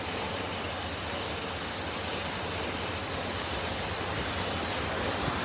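Water rushing steadily from a sheared-off fire hydrant while the valve is being cranked shut.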